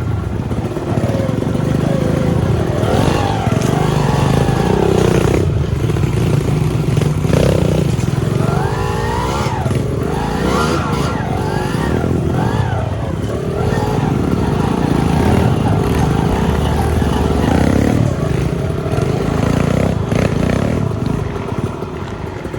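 Trail motorcycle engine revving up and easing off over and over, its pitch rising and falling unevenly as the bike is ridden over slippery river rocks.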